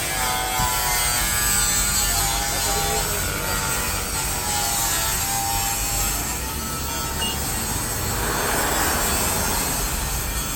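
Autoequip/Degama Fly 28 rollover car wash running: a steady mechanical whir and rush, with a faint motor whine in the first few seconds.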